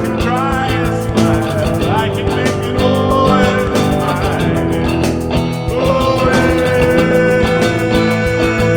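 A rock band improvising a long jam: electric guitar with bending, wavering notes over bass and drums, cymbals ticking steadily.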